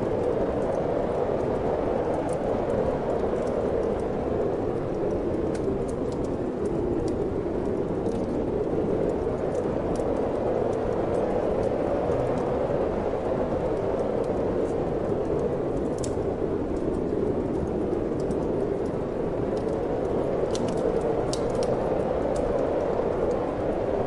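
Steady wind noise, a low even rush, with faint scattered crackles and pops from a wood fire in a fireplace, a few more of them close together near the end.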